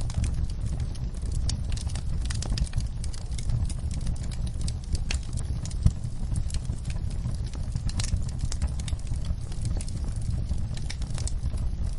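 Wood fire crackling: many small, irregular sharp pops over a steady low rumble, with one louder pop about halfway through.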